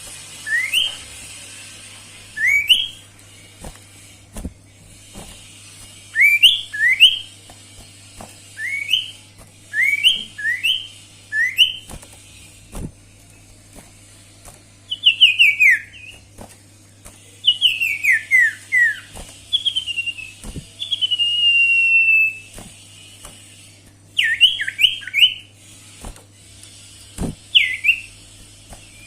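Sirtu bird singing in lively bursts: short, clear whistled notes in quick pairs and runs, some rising sharply and others sweeping down, with one longer falling whistle about two-thirds of the way through. A faint steady low hum lies underneath.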